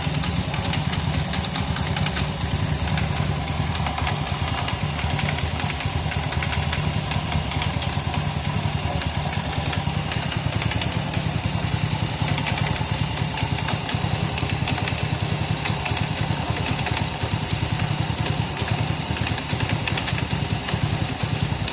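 110cc motorcycle engine idling steadily.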